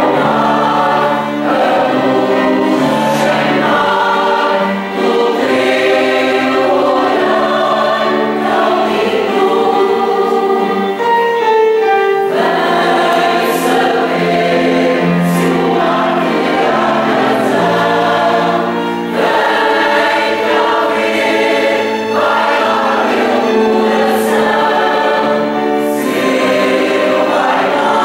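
A choir singing a slow piece, several voices holding sustained notes together.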